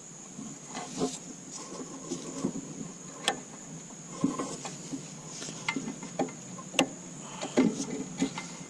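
Irregular clicks, knocks and light taps of hand work on an engine, tools and parts being handled, over a faint steady high-pitched tone.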